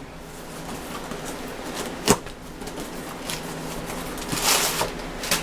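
Sealed trading-card box being opened by hand: light ticks, a sharp click about two seconds in, and a brief tearing rustle of its wrapping a little after four seconds.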